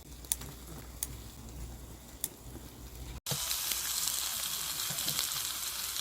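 A few sharp clicks over a low hum, then, after a sudden cut about three seconds in, pork belly sizzling loudly and steadily as it grills over a wood fire.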